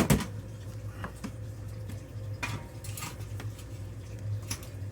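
Metal tool shelf being handled and set in place: a sharp clank at the start, then several lighter metallic clicks and knocks.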